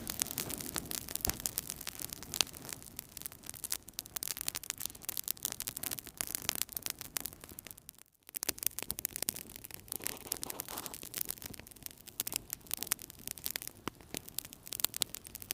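Wood fire in a fireplace crackling, with dense, irregular snaps and pops over a soft hiss of burning. The sound cuts out for a split second about halfway through, then resumes.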